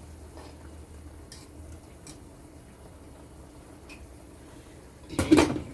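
A few faint ticks over a low steady hum, then a loud, brief clatter of cookware near the end.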